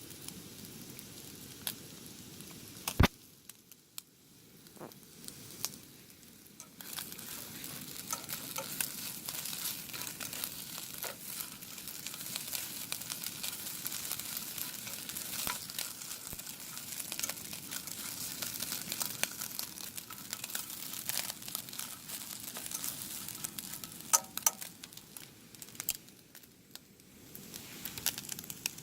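Food sizzling and popping in a hot pan, a dense crackle that sets in about seven seconds in and dies down near the end. A single sharp knock about three seconds in.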